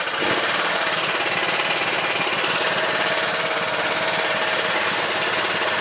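Small engine of a homemade karakat all-terrain vehicle running steadily as it drives, with a fast, even chatter. A faint steady whine joins about two and a half seconds in.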